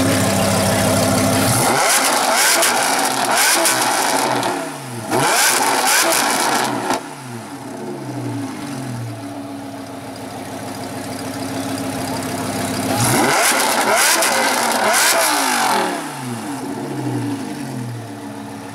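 Lamborghini Huracán's V10 running at idle, then revved in three loud bursts of blips, about two seconds in, around five seconds and around thirteen seconds, each time falling back toward idle.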